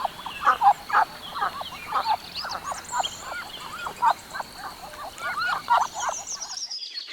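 Ducks quacking: a steady run of short calls, two or three a second. The calls stop about six and a half seconds in.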